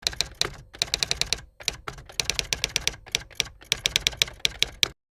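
Rapid typing-like key clicks, several a second in quick runs with brief pauses, cutting off abruptly near the end.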